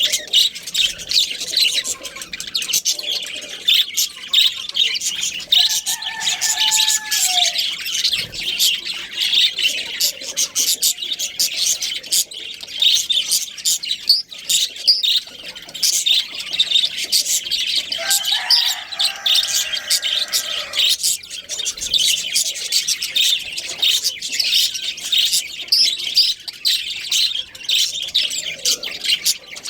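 Many budgerigars chattering and chirping continuously in a dense, rapid stream of calls, with a couple of lower, longer calls among them.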